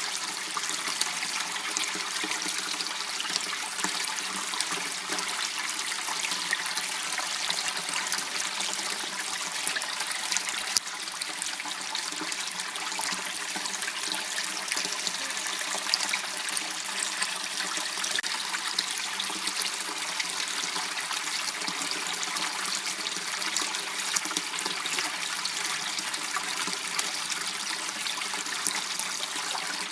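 Water running steadily in a small irrigation channel: a continuous trickling rush with an occasional faint click.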